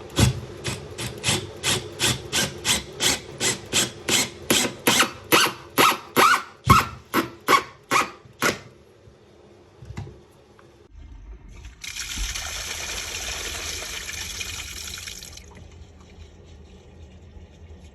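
Hand tool worked in quick back-and-forth strokes, about three a second for some eight seconds, typical of cutting or rasping plumbing material. A steady hiss follows for about three seconds.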